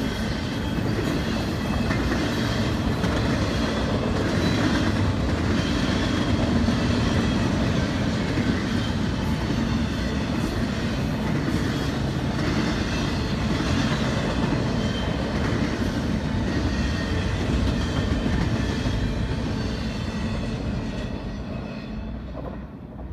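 Double-stack intermodal freight train's well cars rolling past on the track: a steady rumble with wheels clicking over the rail joints. It fades over the last few seconds as the end of the train goes by.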